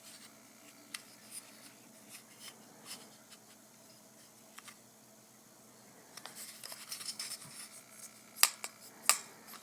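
Hands handling plastic packaging and a Pez dispenser: scattered light clicks and rustles, a denser crinkly stretch from about six seconds in, then two sharp clicks near the end.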